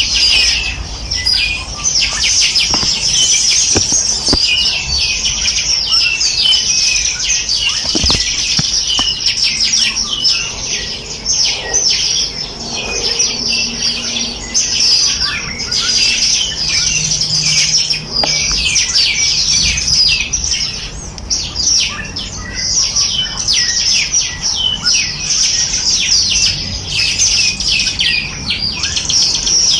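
A dense chorus of many birds chirping and twittering, with rapid, high, overlapping notes in an unbroken stream.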